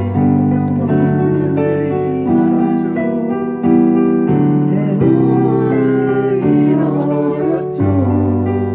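Piano or electric keyboard playing a slow instrumental passage of sustained chords, the harmony moving to a new chord about every second and a half.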